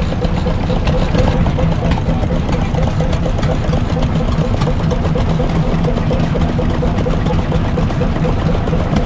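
Old engine running steadily at an even speed, a continuous fast firing rhythm with a steady hum.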